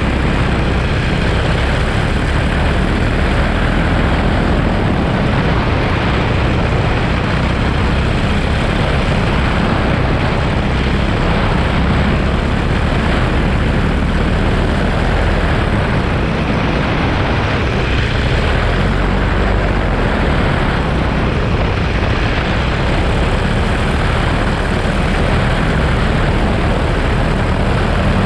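Paramotor engine and propeller running at a steady drone in flight, with an even rush of air noise over it.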